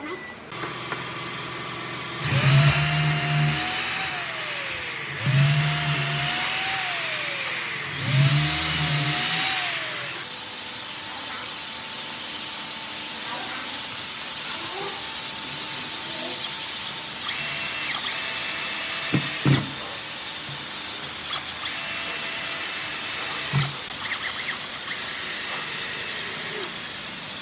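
A handheld power tool's electric motor runs in three loud runs of about two seconds each, its pitch rising and then dropping away each time. Three shorter, higher-pitched runs follow later.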